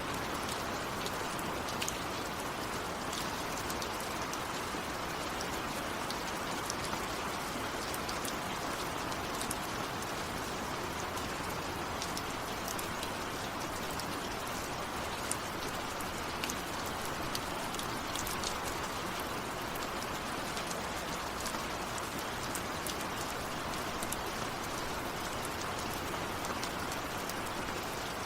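Steady, even rainfall, with scattered single drops ticking close by. No thunder.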